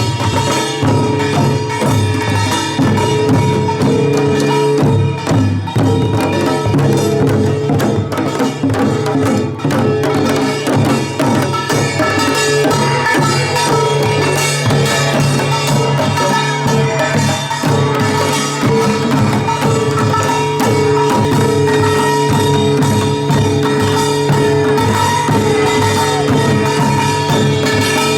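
Pungmul, Korean folk percussion: drums and small gongs beating a dense, fast rhythm, with a held pitched tone that comes and goes over it.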